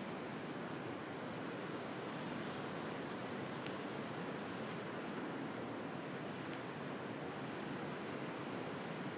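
Steady wash of sea waves with a wood campfire crackling over it, a few sharp pops of burning firewood about three and a half and six and a half seconds in.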